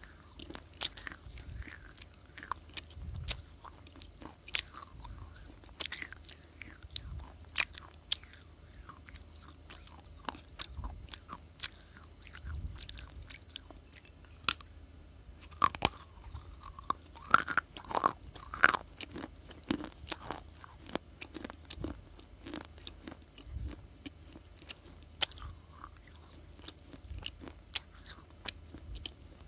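Close biting and chewing of brittle baked clay: irregular sharp crunches and crackles, busiest a little past the middle, over a faint steady hum.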